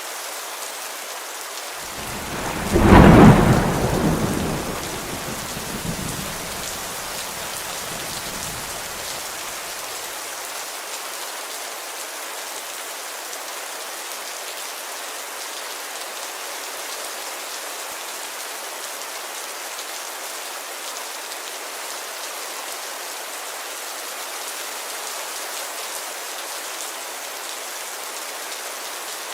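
Steady rain falling on a window, with one thunderclap about three seconds in that rumbles away over the next several seconds.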